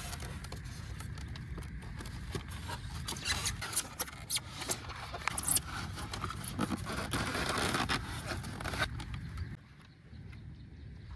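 Hands handling packaging and kit parts: a run of scraping, rustling and small clicks over a steady low rumble, stopping near the end.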